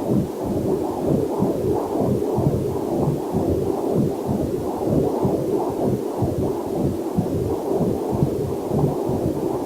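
Fetal Doppler heart monitor sound: a quick, evenly repeating pulse of a little over two beats a second, dull and low, with a faint waterfall rush mixed in underneath.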